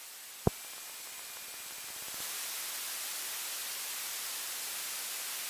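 Steady hiss of an aircraft radio and intercom audio feed between air traffic control transmissions, with one sharp click about half a second in; the hiss grows louder about two seconds in.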